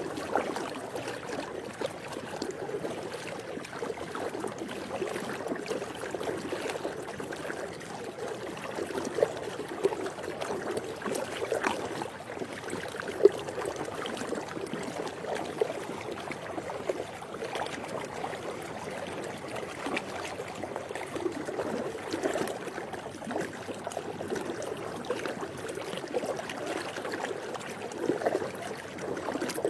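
Swimming pool water lapping and trickling steadily, with small irregular splashes and drips and one sharper splash about halfway through.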